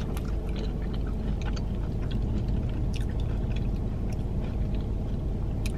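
Close-up chewing of a fried mac and cheese bite dipped in marinara sauce: soft, wet mouth sounds with many small clicks, over a steady low hum.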